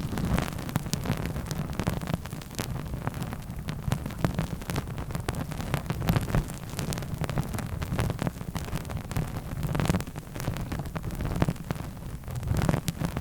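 Close-miked ASMR trigger sounds: quick, irregular clicks and taps over a constant low rumbling rustle, as when things are handled or rubbed right at the microphone.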